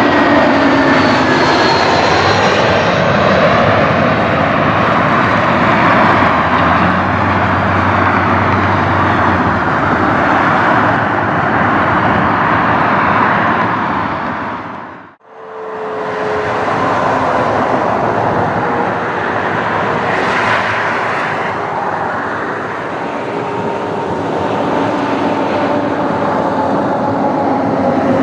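Airliner jet engines running loud and steady, with whining tones that slowly fall in pitch: an Airbus A321 in the first half, then an Airbus A319. The sound fades out and back in about halfway through, at the cut between the two aircraft.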